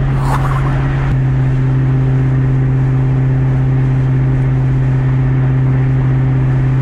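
Supercharged 4.6-litre V8 of a 2003 Ford Mustang SVT Cobra droning steadily at highway cruise, heard from inside the cabin. Its pitch drops slightly about a second in, then holds.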